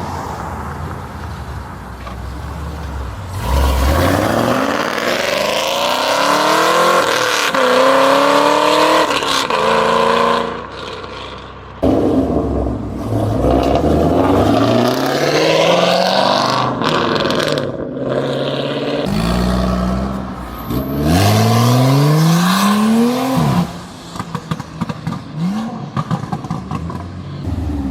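Car engines revving hard as cars accelerate away one after another, each pitch rising, dropping and rising again with the gear changes, in three loud runs.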